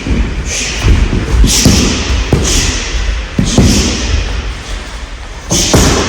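Karate strikes landing on a rolled-up gym mat used as a striking target: irregular dull thuds, several in a row, with short hissing exhalations alongside many of the hits.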